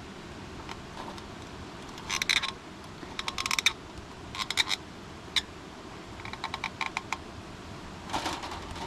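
Several short runs of quick, light clicks and taps, spaced a second or so apart, over a steady faint hiss.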